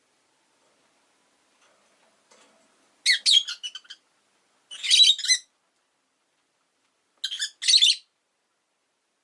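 Rosy-faced lovebird calling in three loud bursts of rapid, shrill chirps, about three, five and seven seconds in.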